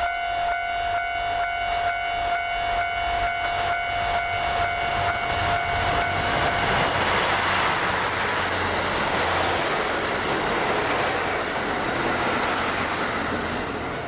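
A railway level-crossing warning bell ringing, struck about three times a second. About seven seconds in, a train passes close by and its loud rushing noise drowns out the bell.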